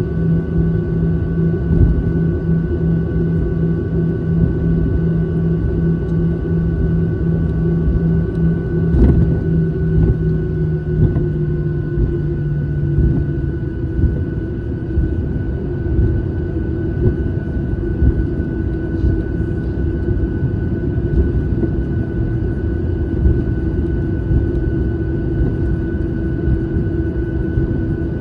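Airliner in flight heard from inside the cabin: a steady rush of noise with engine hum. About ten seconds in, the engine tone steps slightly lower, and a few seconds later a low hum drops out. There is a single click about nine seconds in.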